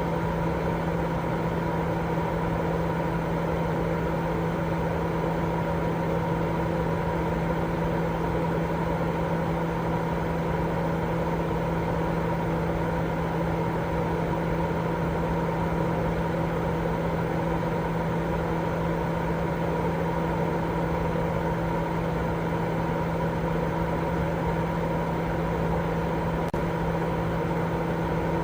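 Continuous white-noise sleep sound: a steady, unchanging rush, fuller in the low and middle range than in the highs, with a constant low hum running under it.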